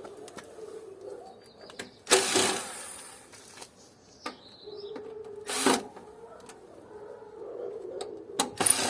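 Metal and plastic parts of an old air-conditioner unit being handled during disassembly: three short, loud scraping rattles, about 2 seconds in, about 5 seconds in, and near the end, with a faint low steady hum between them.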